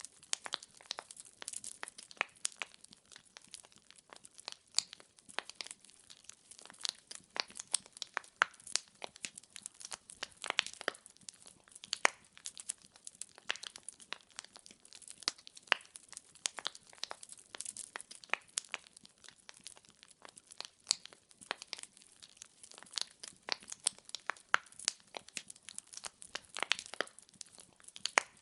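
Wood fire in a fireplace crackling, with irregular sharp pops and snaps of burning firewood over a soft steady hiss.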